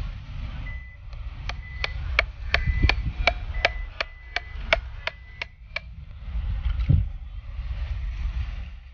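A hammer driving a nail into a wooden birdhouse kit: a steady run of about fourteen quick blows, roughly three a second, with a faint metallic ring, over wind rumble on the microphone.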